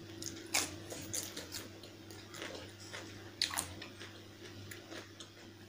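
Close-miked chewing of chicken curry with rice: wet mouth clicks and smacks, the two sharpest about half a second and three and a half seconds in, over a faint steady hum.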